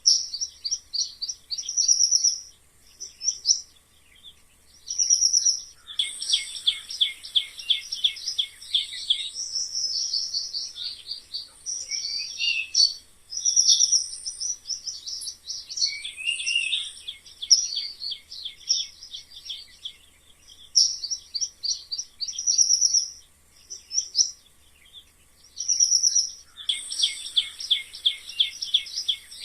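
Mice squeaking: rapid runs of short, high-pitched squeaks, some in quick trills and some as single chirps, with brief pauses between bursts.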